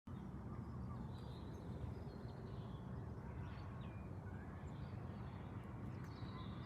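Faint steady outdoor background noise with a low rumble, and a few faint bird chirps over it.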